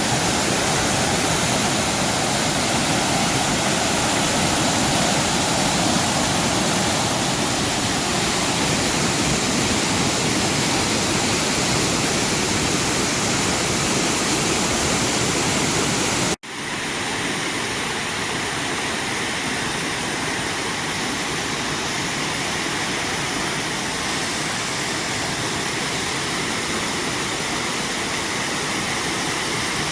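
Waterfall: a steady rush of falling water. About halfway through it cuts out for an instant and comes back slightly quieter, as the sound switches to a different stretch of falling water.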